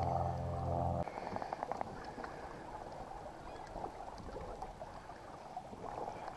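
A steady low hum cuts off suddenly about a second in. Then water sloshes and trickles against the kayak hull, with scattered small clicks.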